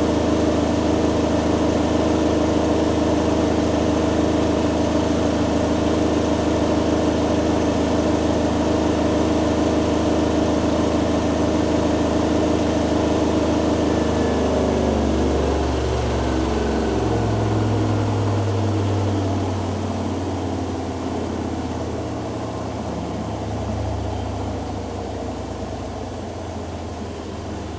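Hoover Dynamic Next DXA610IW3 washing machine in its spin cycle: the drum spins at high speed with a steady motor hum. About halfway through, the drum starts to slow, and the motor whine falls in pitch as the sound fades.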